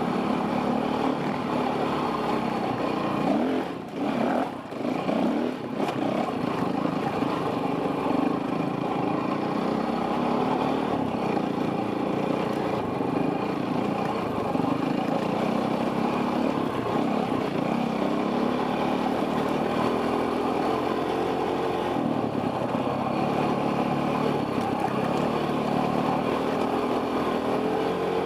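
Enduro dirt bike engine running under throttle on a trail ride, its pitch rising and falling as the rider works the throttle, with the throttle briefly chopped twice about four and five and a half seconds in.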